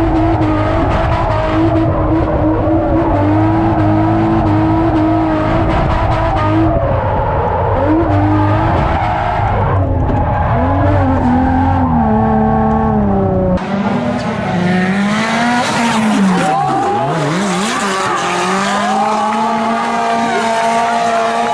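Drift car engine held at high revs with tyres squealing through a slide. About two-thirds of the way through the sound cuts to another car, whose engine pitch dips sharply and climbs back as it slides.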